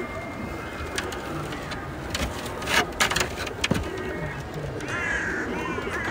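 Birds calling over the low background hum of a large outdoor crowd standing still, with harsh arching calls near the end. Several sharp clicks sound around the middle and are the loudest events.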